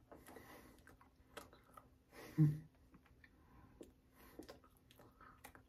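A person chewing a small hard dog biscuit, with irregular crunching and clicking, and a short hummed "mm" about two and a half seconds in.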